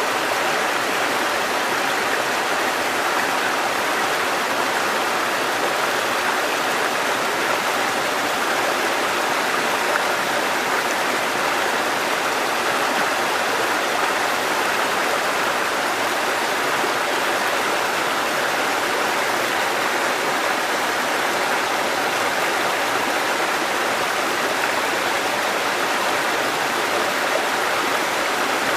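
Water cascading over rocks in a mountain stream, a steady, even rushing.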